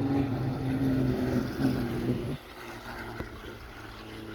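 Racing trucks' engines running as a steady drone that drops off sharply a little over two seconds in, leaving a quieter engine sound in the background.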